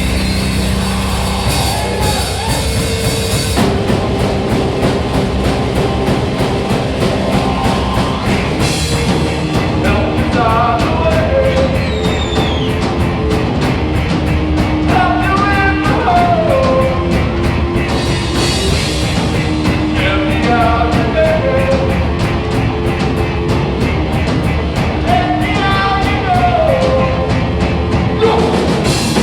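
Live rock trio playing: electric guitar, bass and drum kit, with steady cymbal ticks and a high melodic phrase that slides downward, recurring about every five seconds.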